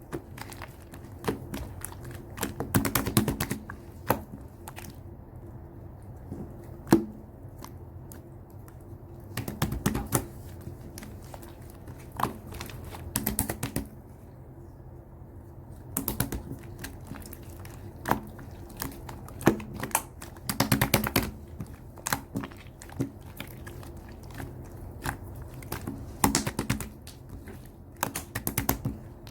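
Slime being squished and poked by hand: clusters of sticky clicks and small pops every second or two.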